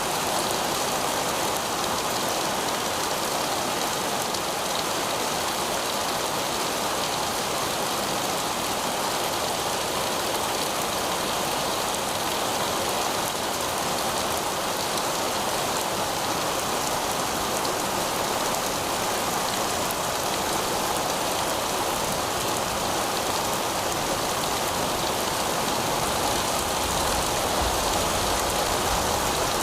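Heavy rain falling steadily on pavement, an even, unbroken hiss of drops.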